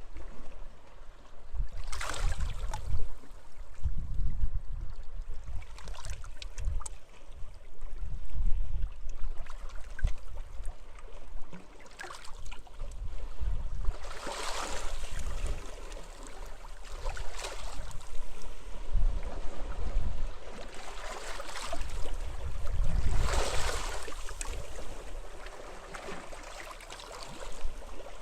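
Small sea waves breaking and washing up the shore every few seconds, each wash a rising and fading hiss, over a steady low rumble of wind buffeting the microphone.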